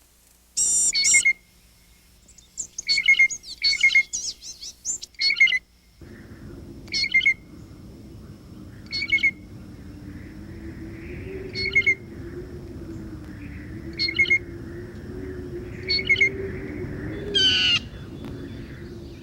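Birds calling: short, sharp, high calls, several in quick succession at first and then one about every two seconds, with a longer falling call near the end. A steady low background noise with a faint hum comes in about six seconds in.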